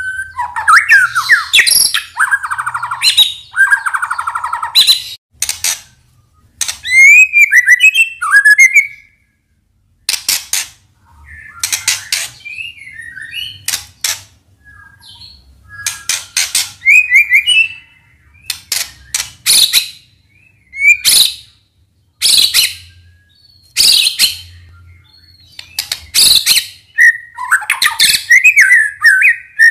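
White-rumped shama (murai batu) in full song: phrases of rich gliding whistles mixed with sharp clicks and harsh rasping notes, broken by short pauses.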